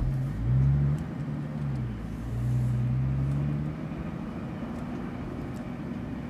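Porsche 911 GT3 RS's 4-litre flat-six pulling away at low speed, heard from inside the cabin. The engine note rises, dips, holds steady for a second or so, then eases off about four seconds in.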